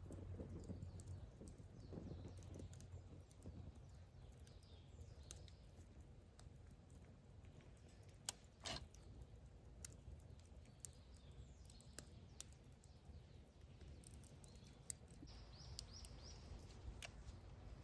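Near silence: faint outdoor ambience with scattered light clicks and one sharper click about eight seconds in.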